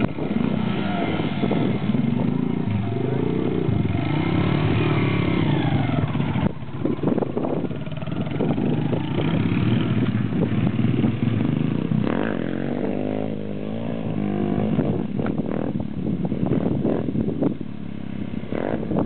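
100cc dirt bike engine running as it is ridden around, revving up and down so that its pitch rises and falls repeatedly.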